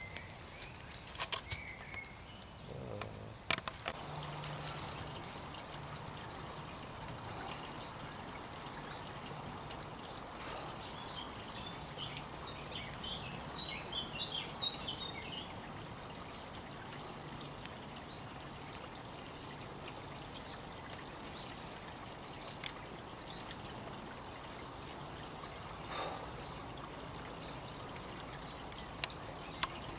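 Outdoor woodland ambience: a steady rushing noise, with a few knocks and rustles in the first few seconds and a short bird song about halfway through.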